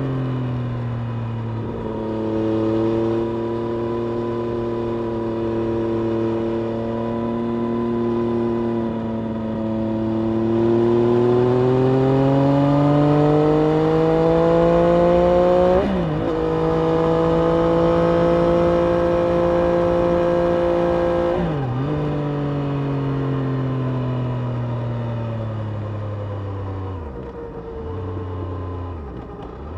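Triumph Street Triple RS's three-cylinder engine heard onboard, running at moderate revs with its pitch slowly rising and falling. Two sharp breaks in pitch come mid-way, and near the end the revs fall away in steps as the bike slows.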